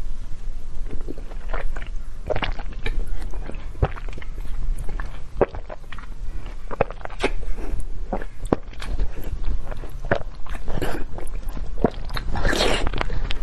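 Close-miked eating: chewing and biting with many short, sharp clicks and smacks, and a longer noisy burst near the end.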